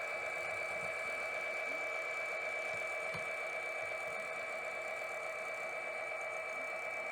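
HO scale model locomotive running slowly on the layout: a steady whine, with a few faint clicks.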